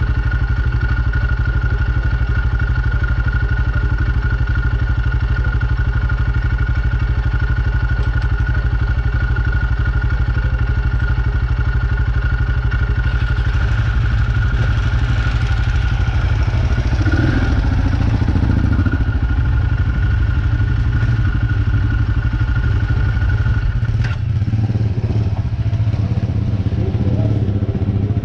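Motorcycle engines running at idle with a steady low drone. About halfway through a brighter, hissier engine sound joins with a brief rev, and near the end the drone thins and a steady high whine stops.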